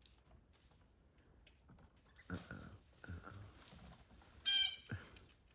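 Blue jay calling: two short, rough calls a little past two and three seconds in, then a louder, clear-pitched call about four and a half seconds in.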